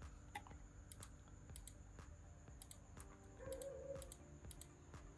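Faint, irregular clicks of typing on a computer keyboard, a few keystrokes a second with short gaps.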